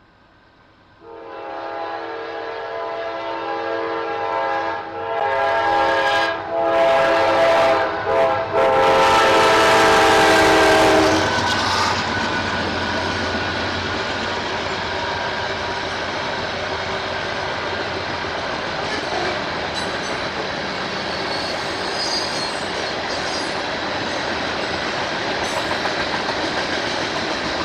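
A locomotive air horn sounds for the road crossing: a chord blown in several blasts with short breaks, growing louder for about ten seconds. It is followed by the steady rumble and clickety-clack of the train's wheels on the rails as it passes.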